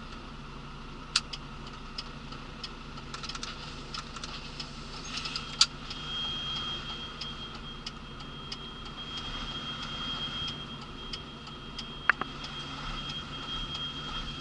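Mercedes lorry's diesel engine running low and steady, heard from inside the cab, with scattered clicks and taps. A steady high-pitched tone comes in about six seconds in and holds.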